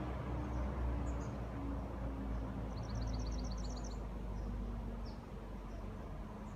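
Outdoor ambience: a low hum with a slowly falling pitch, like a distant engine, under a small bird's rapid trill of about a dozen high notes a little before the middle, with a few scattered chirps.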